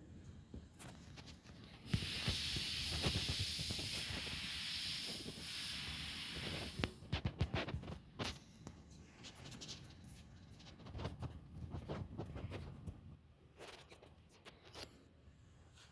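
A steady hiss starting about two seconds in and lasting about five seconds, cut off abruptly, followed by scattered clicks and knocks.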